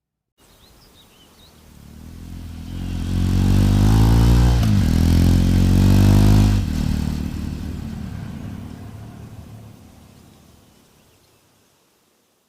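A motorcycle riding past: its engine note grows louder as it approaches, drops in pitch as it passes about five seconds in, then fades away.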